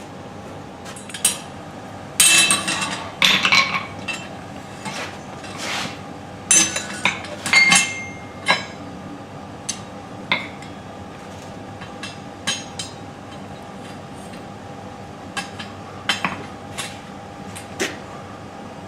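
Hand tools tapping and clinking against a stainless steel workpiece: irregular sharp metallic taps, bunched in two quick flurries in the first half, then sparser single taps, one ringing briefly.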